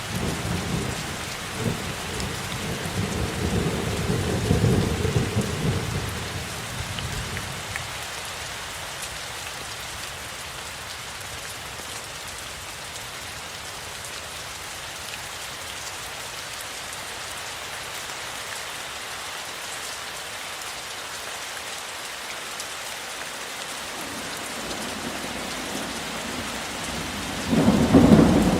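Steady rain falling during a thunderstorm. A low rumble of thunder dies away over the first several seconds, leaving the rain alone, and a new, louder thunder rumble breaks in near the end.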